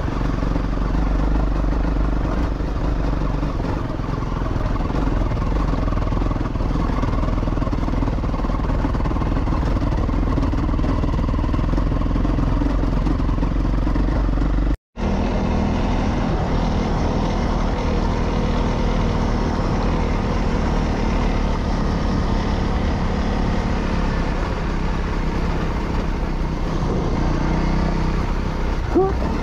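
Honda CRF250 single-cylinder dirt bike engine running steadily under load on a rough uphill road. The sound cuts out completely for a moment about halfway through.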